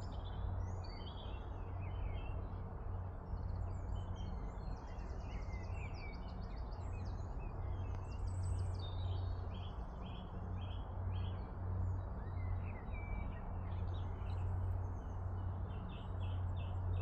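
Small birds chirping and twittering outdoors, with several quick trills, over a steady low hum.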